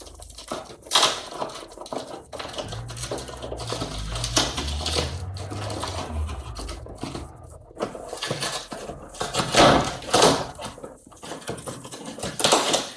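Packaging being handled and opened by hand: the shipping box and wrapping around a perfume box rustling and crinkling, with louder crackles about a second in and again near the end.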